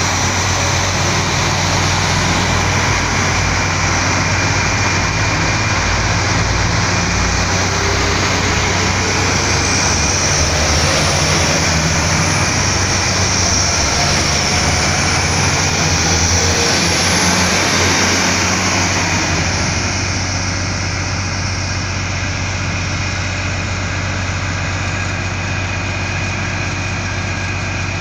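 Bayerische Regiobahn diesel multiple unit pulling away past the platform with steady engine and wheel noise and a faint high squeal in the middle, over the low steady hum of an idling DB class 218 diesel locomotive. The noise drops a little about 20 seconds in as the railcar moves off.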